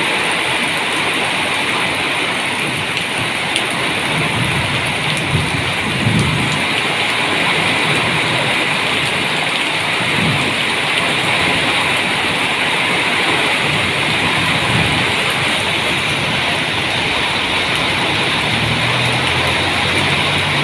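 Heavy rain falling steadily, a dense even hiss, with a few low rumbles at times.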